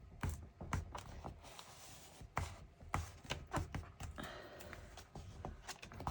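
Irregular taps, knocks and light rustling from handling and pressing glued paper album pages into place.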